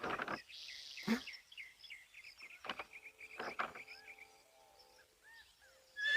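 Small birds chirping over and over, with a few soft knocks.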